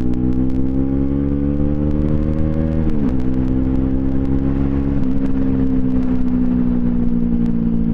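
Bajaj Pulsar NS200's single-cylinder engine running through an aftermarket twin-pipe exhaust while riding under power: the pitch climbs steadily, drops at an upshift about three seconds in, climbs again, and after another shift around five seconds settles to an even cruise.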